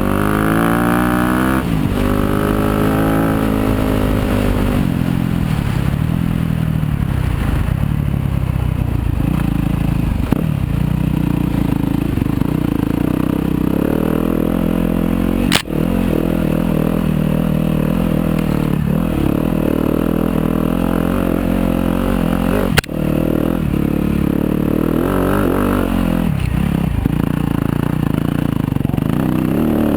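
Yamaha YZ250FX's single-cylinder four-stroke engine running under way on a dirt trail, rising and falling in pitch with the throttle for the first few seconds, then holding a mostly steady note. Two sharp knocks cut through it, about seven seconds apart, past the middle.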